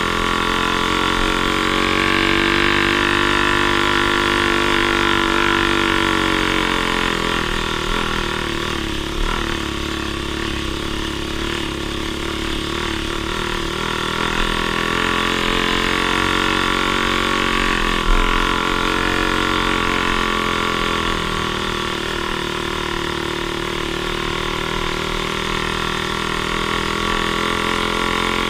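An off-road vehicle's engine running steadily, its engine speed rising and falling slowly, with a few brief knocks, the loudest about 18 seconds in.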